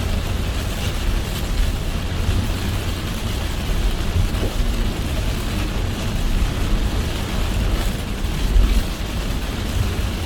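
A car driving in heavy rain: a steady low rumble of engine and tyres on the wet road under an even hiss of rain.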